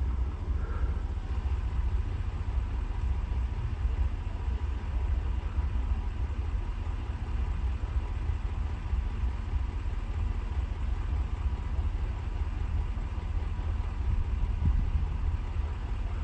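Car moving slowly, heard from inside the cabin: a steady low engine and road rumble.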